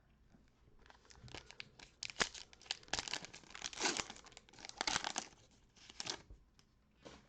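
A trading-card pack's plastic wrapper being torn open and crinkled by hand, in a run of crackling rips for about five seconds.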